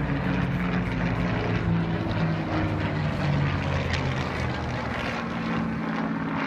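Propeller-driven piston-engined aircraft flying past, a steady low engine drone whose pitch drifts slowly down as it passes.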